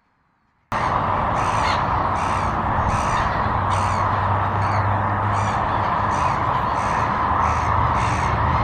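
A bird calling over and over, about two calls a second, over a steady rushing background; the sound cuts in abruptly less than a second in.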